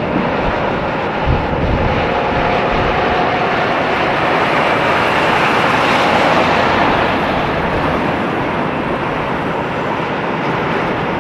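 Semi truck driving past with its diesel engine and tyre noise, swelling to a peak about six seconds in and then easing off.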